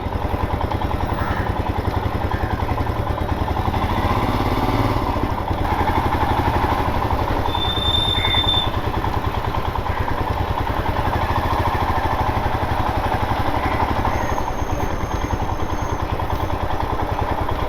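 Motorcycle engine running steadily as the bike is ridden, its exhaust pulsing evenly.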